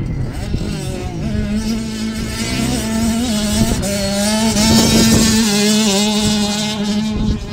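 Motocross motorcycle engine running hard at a fairly steady high pitch, wavering slightly. It grows louder toward the middle and eases off near the end, as if the bike passes by.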